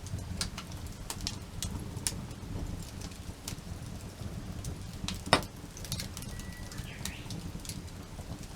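Campfire wood burning, with irregular crackles and pops over a low steady rumble; one sharp, loud pop about five seconds in.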